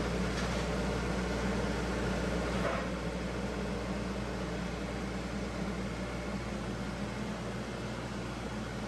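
Steady hum of a vehicle engine with road noise, easing slightly about three seconds in.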